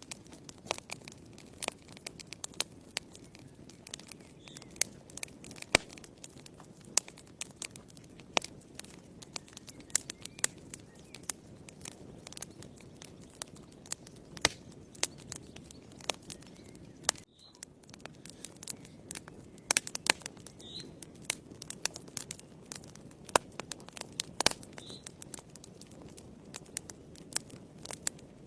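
Wood fire burning in a fireplace: irregular sharp crackles and pops over a low steady rustle of flames, with a momentary drop-out about seventeen seconds in.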